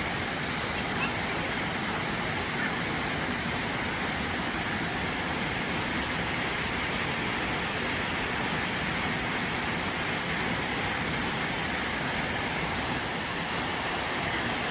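Steady, even rush of a waterfall, with no breaks or changes.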